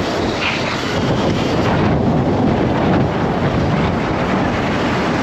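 Wind rushing over the microphone of a rider at speed on a mini electric dirt bike, a steady loud roar of noise.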